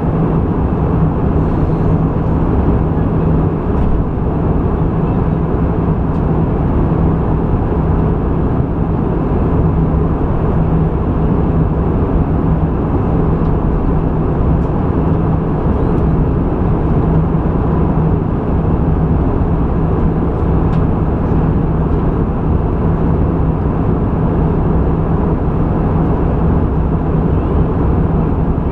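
Steady cabin noise of an Airbus A320 in flight: a constant rush of engine and airflow noise with a steady low hum underneath.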